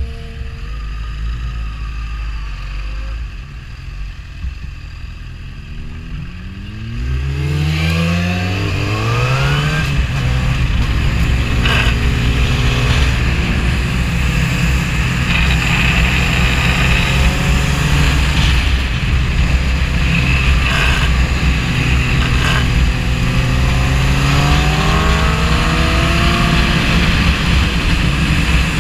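Suzuki GSX-R 1000's inline-four engine heard from on the bike: quieter, low running off the throttle for about the first seven seconds, then it revs up with rising pitch through the gears and holds high revs at speed, climbing in pitch again near the end.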